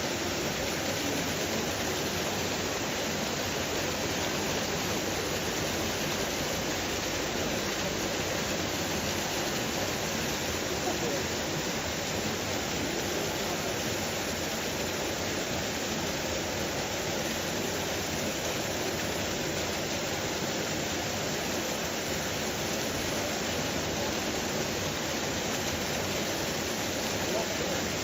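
Steady rushing noise with a faint murmur of voices.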